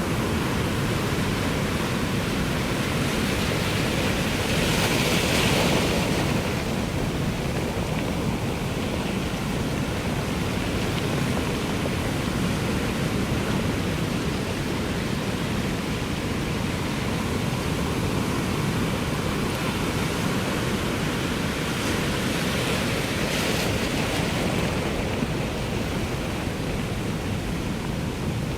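Ocean surf: a steady wash of waves, with two louder waves breaking, one about five seconds in and another about twenty-three seconds in.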